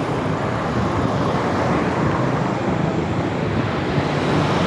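Steady road traffic noise with wind rushing over the microphone, an even rumble with no distinct events.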